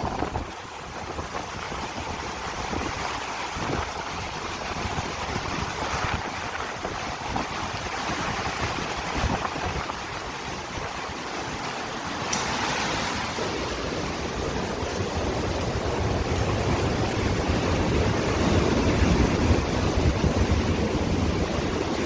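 Rough sea surf washing in, with wind buffeting the microphone; the rumble grows louder in the second half.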